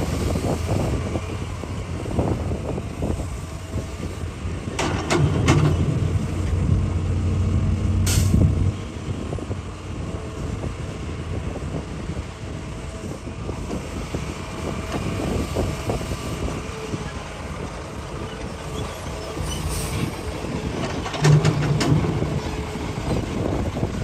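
Hitachi hydraulic excavator's diesel engine running under load while digging rock. It swells twice, about 5 and 21 seconds in, with a few knocks of the bucket against rock, and gives a short hiss about 8 seconds in.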